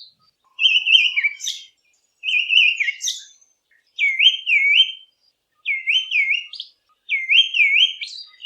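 Olive thrush singing: short clear whistled phrases, each a pair of quick down-and-up swoops, repeated about five times with brief pauses between.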